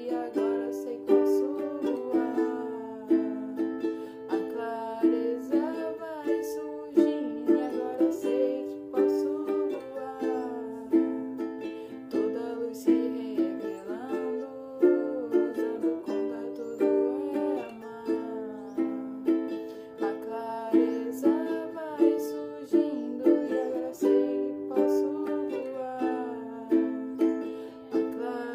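Instrumental music: an acoustic plucked string instrument picking a steady, repeating pattern, with no singing.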